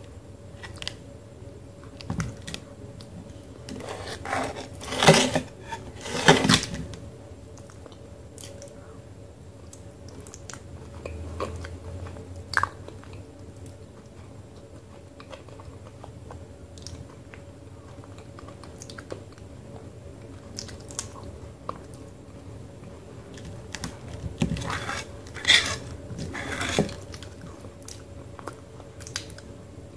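Mouth sounds of someone eating a thick, crumb-free paste of multani mitti (fuller's earth clay) from a spoon: chewing with scattered sharp clicks, loudest in two clusters about five and twenty-five seconds in.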